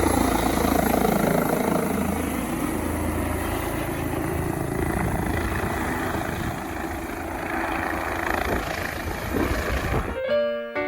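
Helicopter running, a dense, steady rotor-and-engine noise that cuts off abruptly about ten seconds in, when piano music begins.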